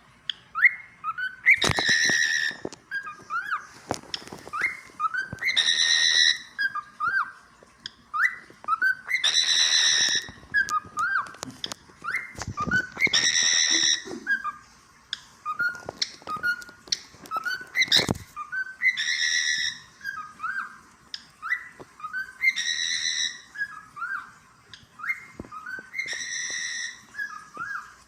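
Cockatiel singing: strings of short rising whistled notes, broken every three to four seconds by a louder, harsher call.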